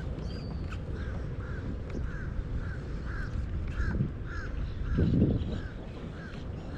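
A bird giving a rapid series of short, evenly spaced calls, about two a second, over a steady low rumble. A dull low thump sounds about five seconds in.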